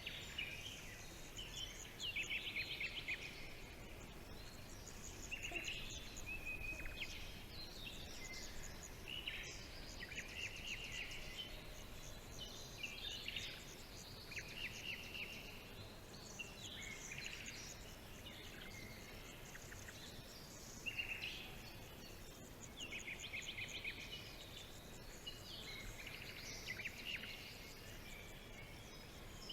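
Wild birds chirping and singing, many short high calls and quick trills coming one after another and overlapping, over a faint steady hiss.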